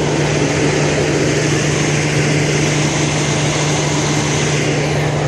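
Motor vehicle engine running steadily, a constant low hum with a steady hiss over it.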